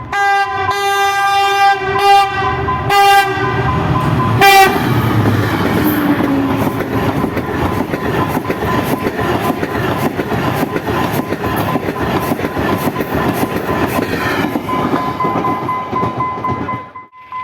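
A diesel locomotive's air horn sounds four blasts, one long and three short, over the first four and a half seconds. A train then rushes past at speed, with a steady run of wheel clicks over the rail joints, until the sound cuts off sharply near the end.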